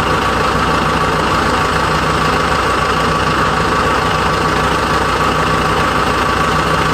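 An engine idling steadily, a constant low hum with a hiss above it.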